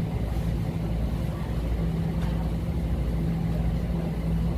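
A motor vehicle's engine running steadily at idle, a continuous low rumble with a steady low hum.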